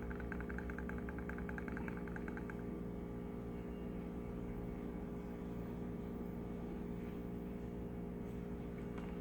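Steady electrical hum from a bench power supply running an electropolishing bath, with a rapid light ticking while the part is shaken in the acid that stops about two and a half seconds in.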